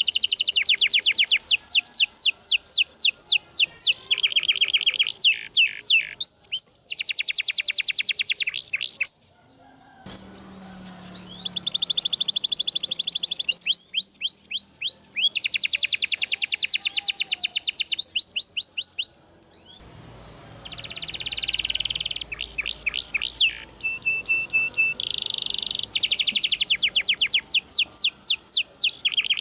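Domestic canary singing long, rapid trills of repeated high notes, switching between several pitches and note types. The song breaks off briefly twice, about nine and nineteen seconds in.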